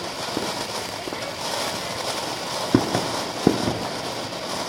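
Ground fountain firework spraying sparks with a steady hiss, with two sharp pops a little under a second apart just past halfway through.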